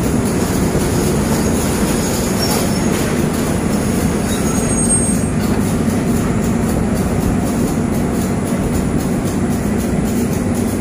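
Railway coaches rolling slowly past on the rails as a train pulls in to stop, a steady rumble of wheels on track with a brief high-pitched squeal about five seconds in.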